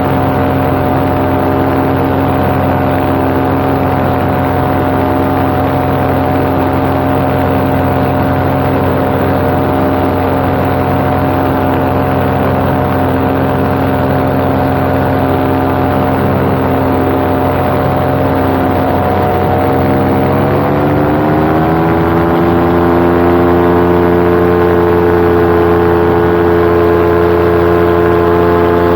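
Paramotor engine and propeller running steadily in flight, then throttled up about two-thirds of the way through, its pitch rising smoothly and holding at a higher speed.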